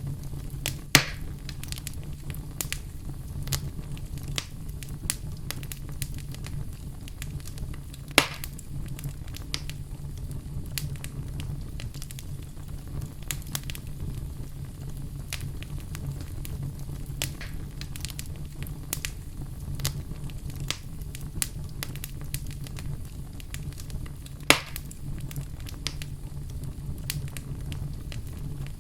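Wood fire burning in a fireplace: a steady low rumble of the flames with frequent small crackles and three louder pops, about a second in, around eight seconds in and near the end.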